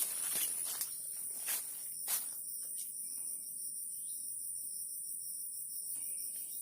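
Steady, high-pitched chirring of insects such as crickets, with a fine, even pulse. A few sharp clicks or rustles sound in the first two seconds.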